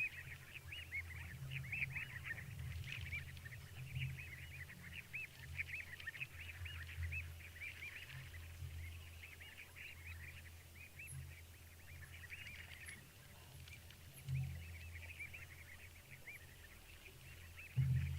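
A dense chorus of small animals making short chirping calls, many a second, thinning out in the middle and building again near the end. Under the chorus is a steady low rumble that swells twice, about 14 seconds in and at the very end.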